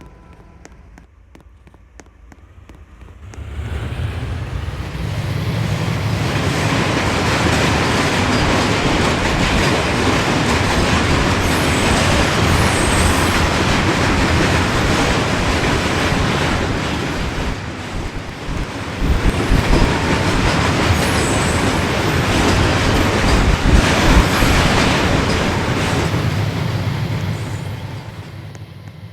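Norfolk Southern freight train rolling past, a loud steady rumble and clatter of steel wheels on rail that builds up a few seconds in, dips briefly past the middle, and fades away near the end, with a few faint high wheel squeals.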